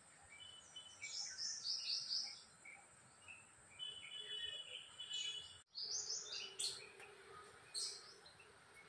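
Small birds chirping and trilling in short repeated notes, with a brief dropout a little past halfway.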